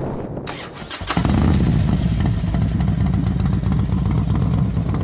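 Motorcycle engine that comes in suddenly about a second in and then runs steadily.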